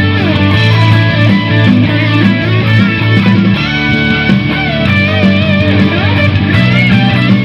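Electric guitar played through a Lekato Tank G multi-effects processor: a sustained lead line with string bends and vibrato over a steady bass and drum backing, in a rock/metal style.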